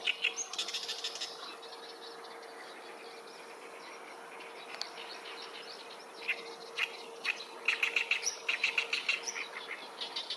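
Small birds chattering and singing in quick runs of repeated high notes, once about half a second in and again through the second half, over a faint steady hum.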